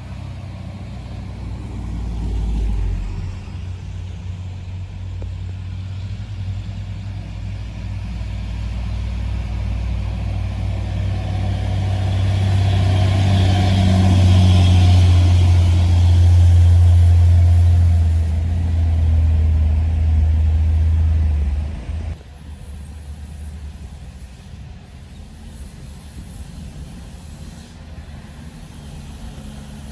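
Heavy truck loaded with sugarcane, its engine running with a deep drone that grows steadily louder, then drops away suddenly about two-thirds of the way through, leaving quieter traffic noise.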